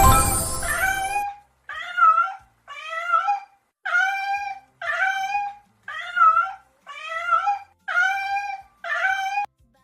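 A small pet animal's short pitched cries, about nine in a row, evenly spaced about once a second, after a brief sound-effect burst at the start.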